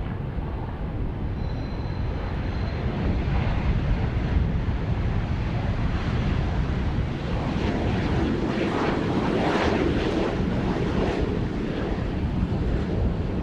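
Aircraft engine noise, a steady spread-out rush that swells to its loudest about nine to ten seconds in.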